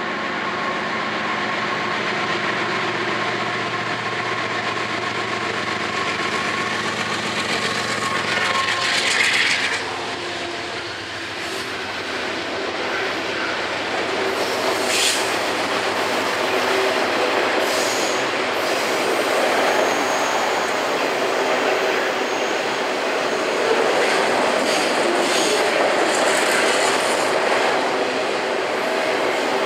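CSX freight train's diesel locomotives approaching with a steady engine drone, loudest as they pass beneath about nine seconds in. Then a long string of autorack cars rolls by with a continuous rumble of wheels and rail clatter, and a few brief high wheel squeals.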